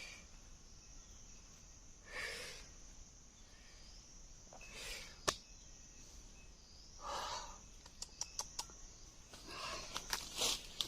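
Steady high-pitched drone of forest insects such as crickets, with several short bursts of rustling and a few sharp clicks, the loudest click about five seconds in and a quick run of them around eight seconds.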